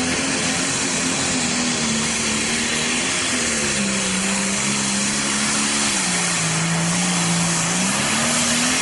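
Pro Stock pulling tractor's turbocharged diesel engine running at full power under the sled's load. Its pitch sags about a third of the way in, drops lower past the middle as the load builds, and climbs back up near the end.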